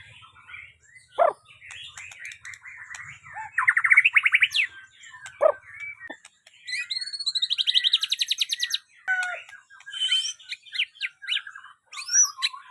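White-rumped shama (murai batu) singing a varied song of clear whistles, sharp downward-sweeping notes and fast rattling trills, the loudest trill about a third of the way in and a longer one just past halfway.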